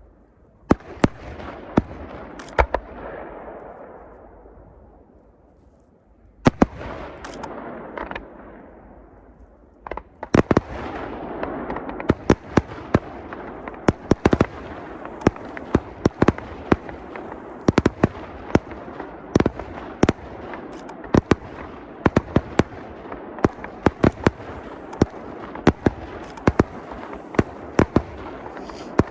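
Fireworks display shells bursting: a few sharp bangs, a short lull, then another group, and from about ten seconds in a dense barrage of rapid bangs over a continuous crackle and rumble, as heard through a smartphone microphone.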